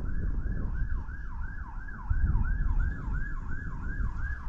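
Emergency vehicle siren in fast yelp mode, its pitch sweeping up and down about three times a second, over a low rumble that swells about two seconds in.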